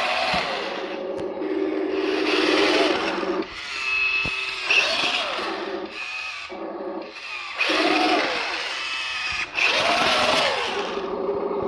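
Small electric motors and gearing of an RC model dump truck whining in a series of stop-start bursts, with the pitch rising and falling as the motor speeds up and slows down.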